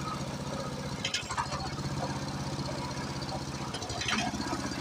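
Tractor engine running steadily with an even firing rhythm. Two brief sharper noises break in, about a second in and again near the end.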